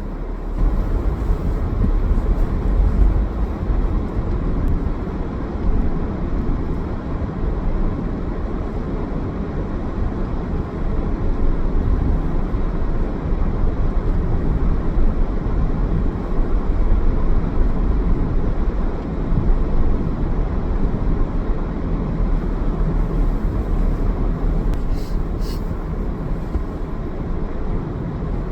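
A car driving: steady rumble of engine and road noise, with a couple of short clicks near the end.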